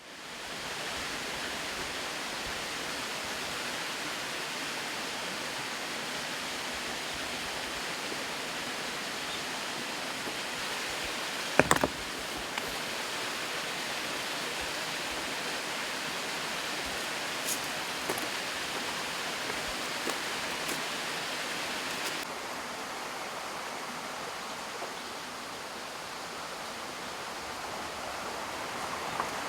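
Steady rushing of fast-flowing water, an even hiss with no pitch, with one sharp knock about twelve seconds in.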